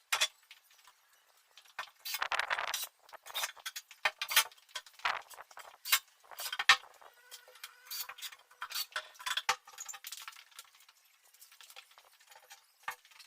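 Scattered light metallic clinks and knocks at an irregular pace, as of small hardware and tools being handled during closet installation work.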